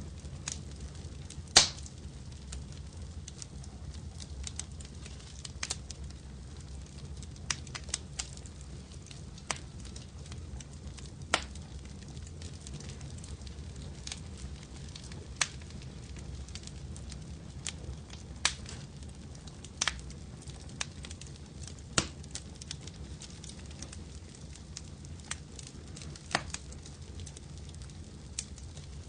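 Wood fire crackling: a steady low rumble of flames with irregular sharp pops and snaps every second or two, the loudest about a second and a half in.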